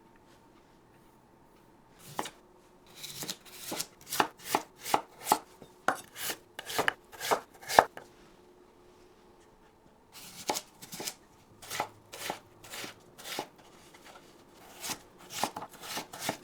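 Kitchen knife chopping food on a cutting board in three runs of sharp, even strokes, about two to three a second, with short pauses between the runs.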